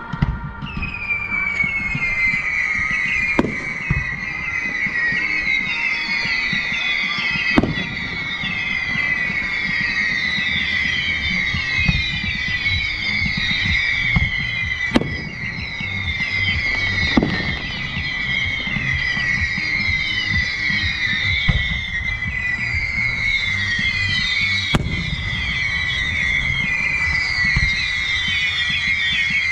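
A fireworks display: a dense barrage of many overlapping whistles, each falling in pitch, runs throughout, with a sharp bang every few seconds.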